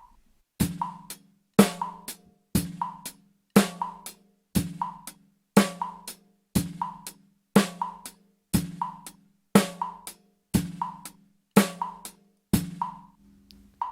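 Drum kit playing a simple beat of bass drum, snare and hi-hat, a main stroke about once a second, over a 60 BPM metronome click. The click falls on the second sixteenth, right after each kick or snare hit. The drums stop near the end, leaving the click ticking alone.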